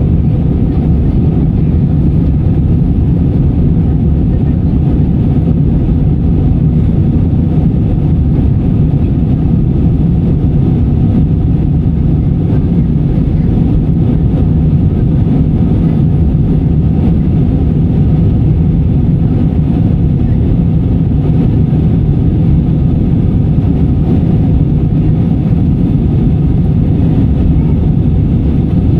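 Steady, loud low rumble and hiss of an airliner cabin, even in level with no rise or fall.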